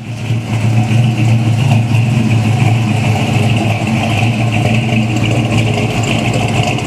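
1970 Chevelle SS454's 454 big-block V8 running steadily with a low rumble, through its stock exhaust manifolds.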